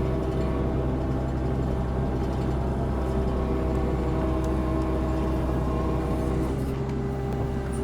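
Compact excavator's engine running steadily with a constant low hum.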